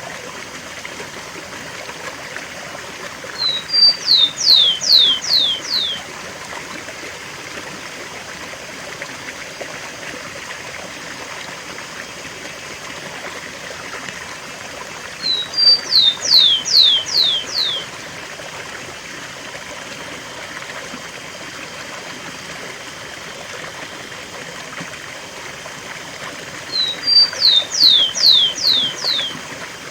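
Rufous-collared sparrow (tico-tico) singing the song type Brazilian keepers call 'cemitério' three times, about twelve seconds apart: two short high notes, then a run of about five quick downslurred whistles. Under it runs a steady rush of a waterfall.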